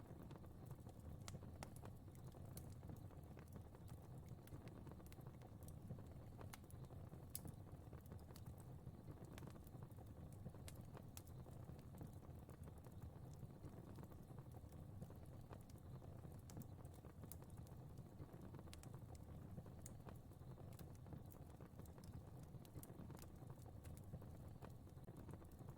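Fire crackling faintly: irregular small snaps and pops, several a second, over a steady low rumble of burning flames.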